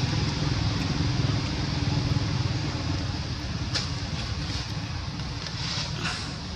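A motor vehicle's engine running steadily, slowly fading away, with a few faint clicks in the second half.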